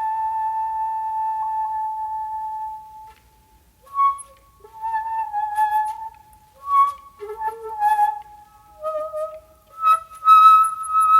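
Solo shakuhachi (Japanese end-blown bamboo flute) playing a honkyoku piece. A long held note fades out about three seconds in; after a short pause come short breathy phrases with sharp attacks, with a burst of breath noise near the end before a higher held note.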